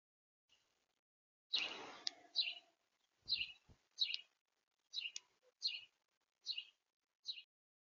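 A small bird at a feeder chirping about eight times in short, separate high notes, roughly one every 0.7 s. The first chirp, about a second and a half in, is the loudest and comes with a brief noisy rustle.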